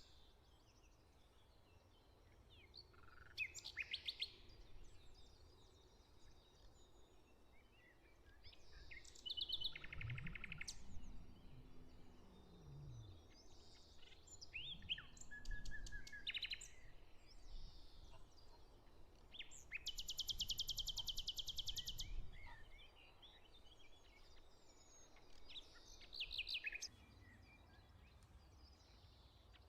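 Several songbirds singing in separate phrases, including short trills and down-slurred notes, with one long, rapid trill about two-thirds of the way through. A faint low rumble rises and fades in the middle.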